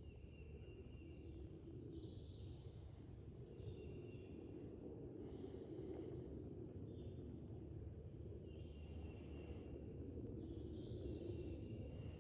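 Faint songbird song: two bouts of high chirping notes that step down and sweep up, over a steady low background rumble.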